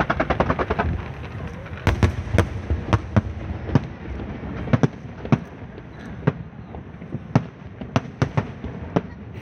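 Firecrackers and fireworks going off: a rapid string of pops for about the first second, then single sharp bangs at irregular intervals.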